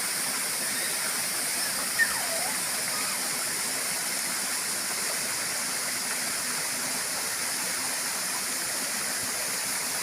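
Waterfall rushing in a steady, even roar of falling water, with one short sharp sound about two seconds in.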